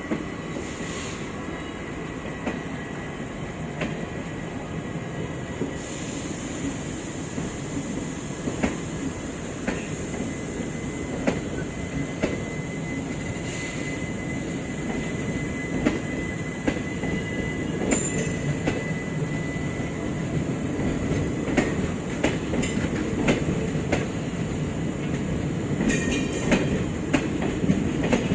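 ICF passenger coaches of a departing express train rolling along the track, wheels clicking over rail joints with a thin, steady wheel squeal. The sound grows gradually louder as the train gathers speed.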